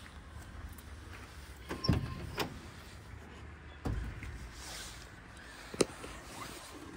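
Four sharp knocks or clicks, two close together about two seconds in, one near the middle and one near the end, over a low steady rumble.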